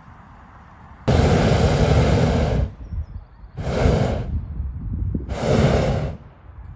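Hot air balloon's propane burner firing in three blasts, each starting and stopping abruptly: a long one of about a second and a half, then two shorter ones. This is the burner heating the envelope for take-off.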